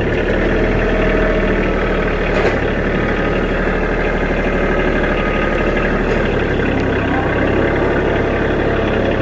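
Engine of a piece of farm machinery running steadily at an even speed.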